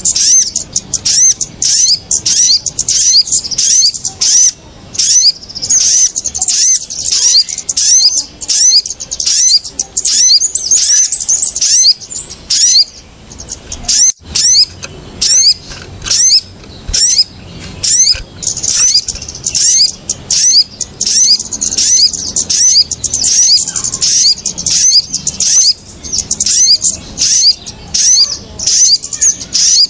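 Small birds of the kind called kemade and sogon chattering noisily in a bird-trapping lure recording: rapid high-pitched chirps, many a second, with a brief lull about halfway through.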